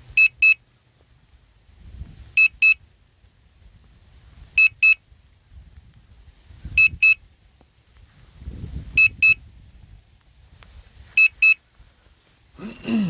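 Hubsan Zino Mini Pro drone remote controller beeping during return-to-home. Pairs of short, high beeps repeat about every two seconds.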